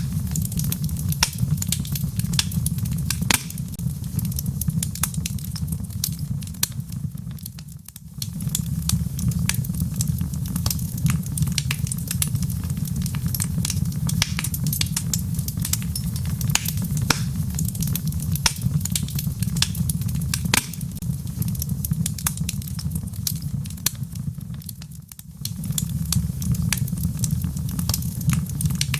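Wood fire burning in a fireplace: logs crackling with frequent sharp pops over a steady low rumble. The sound briefly fades down and comes back, about a quarter of the way in and again near the end.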